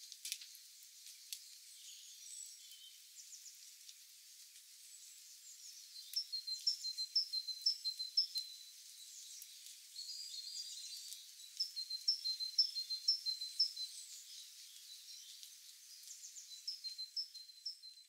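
Songbirds singing. One bird repeats a high two-note phrase about twice a second in three runs of a few seconds each, over scattered chirps and a few faint sharp ticks.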